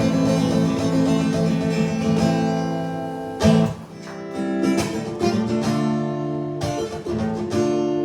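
Acoustic guitar played alone, chords ringing on, with a few separate strums in the second half.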